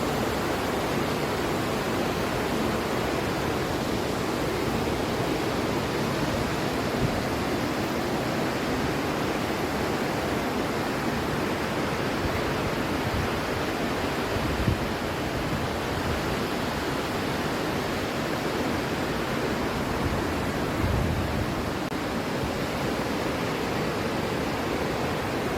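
Waterfall: a steady, full rush of falling water, with a couple of brief low thumps in the middle and later on.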